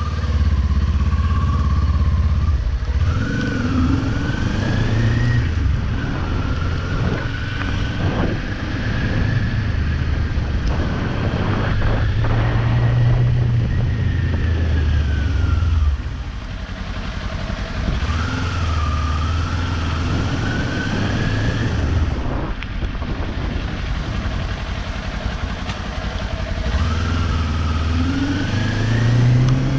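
Kawasaki Ninja 400 parallel-twin engine under way, its pitch climbing steadily and dropping back at each gear change, several times over, with a constant rush of wind and road noise.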